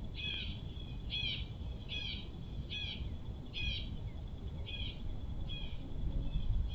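A bird calling over and over, about one short, falling call a second, fading over the last few seconds, above a faint steady high-pitched hum and a low outdoor rumble. A low thump at the very end.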